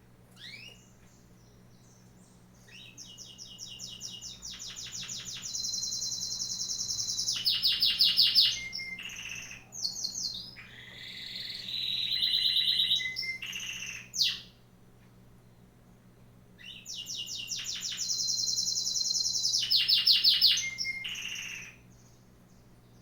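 A songbird singing: two long, matching phrases of fast repeated trilled notes, with a shorter, varied phrase between them.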